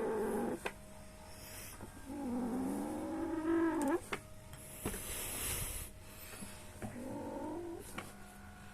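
Massager rollers squeaking from friction against the massager's fabric cover: drawn-out squeals that wander up and down in pitch, a long one about two to four seconds in and a shorter one near the end, with a few sharp clicks between.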